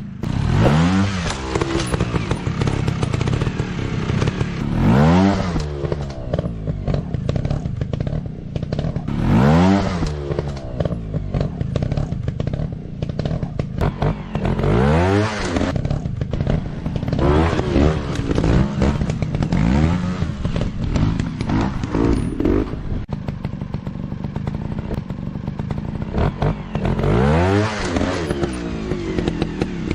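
Dirt bike engine revving in repeated bursts, its pitch climbing and falling back every few seconds as the throttle is worked.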